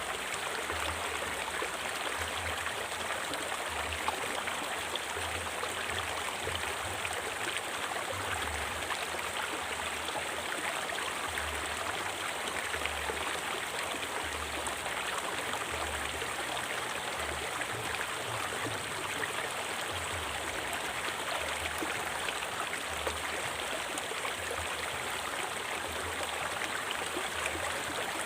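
River water flowing steadily over stones, an even rushing with small splashes scattered through it.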